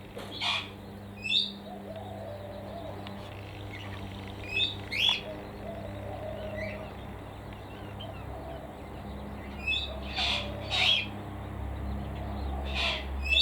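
Birds in a mixed aviary chirping: short, high calls, singly and in quick pairs, about ten in all, over a steady low hum.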